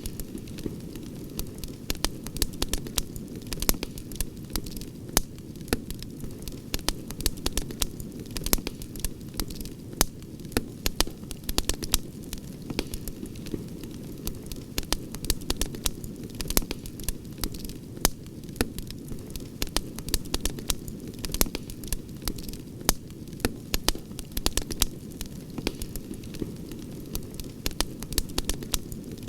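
Wood campfire crackling, with many irregular sharp pops and snaps over a steady low rush of the burning flames.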